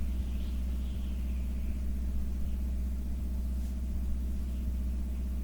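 Steady low rumble with no breaks or changes.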